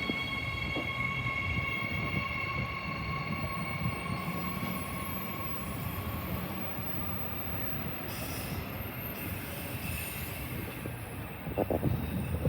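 Electric suburban train moving along the platform, wheels rumbling, with a high steady squeal of several pitched tones that fades away over the first few seconds.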